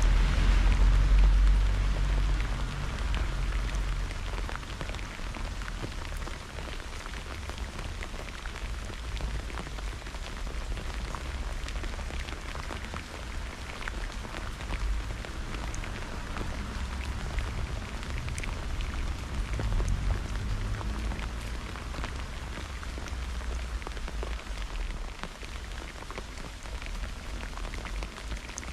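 Thunderstorm rain falling steadily, with many close drops ticking on a surface. A low thunder rumble fades away over the first few seconds, and a weaker rumble swells about two-thirds of the way through.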